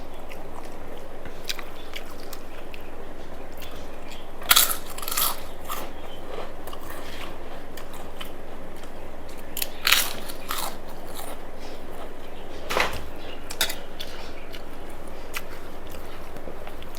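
A person chewing food close to the microphone, with a few sharp crunches; the loudest come about four and a half and ten seconds in.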